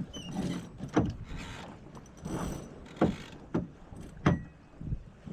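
Irregular sharp knocks and clicks from a small sailboat's deck hardware and rigging under way, with short rushes of water or wind noise between them.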